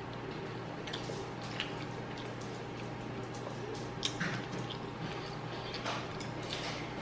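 Close-miked eating: wet chewing and a scattering of sharp mouth smacks and clicks over a steady low hum.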